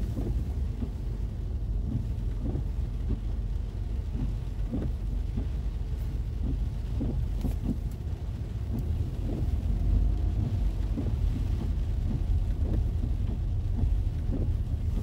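Rain falling on a car heard from inside the cabin, with scattered soft taps over a steady low rumble.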